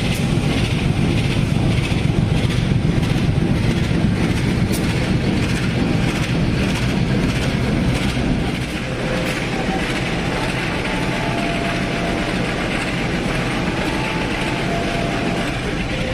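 Passenger train running on the rails, with a steady rumble and rapid wheel clicks over the track. About nine seconds in it gets quieter and faint, brief high squeals come in as the train eases toward Kediri station.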